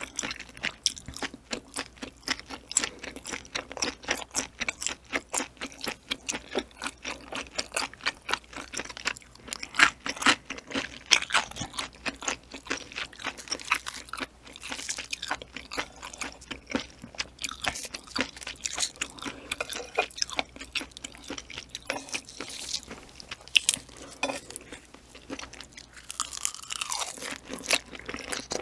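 Close-miked chewing of springy raw-style seafood, boiled octopus and ocean sunfish jelly: a rapid run of wet, crisp crunches and mouth clicks. A short falling hum comes near the end.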